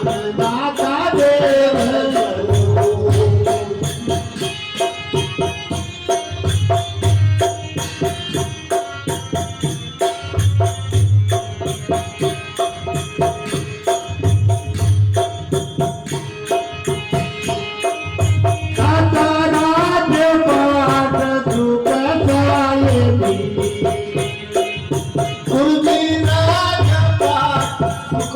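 Rajasthani devotional bhajan music: a singer's voice in stretches near the start and in the last third, over a steady rhythmic accompaniment of drum beats and jingling rattle-like percussion, with instrumental passages between.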